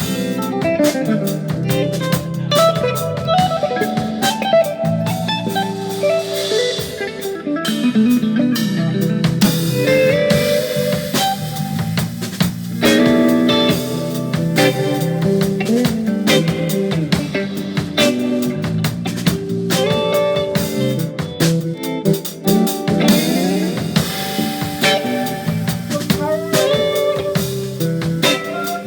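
Small jazz-fusion band playing an improvised piece: guitar lines over bass and drum kit, with busy cymbal and snare hits throughout.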